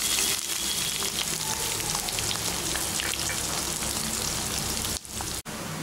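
Chopped onions sizzling in hot oil as they are poured into the pan: a steady frying hiss that dips and cuts out briefly near the end.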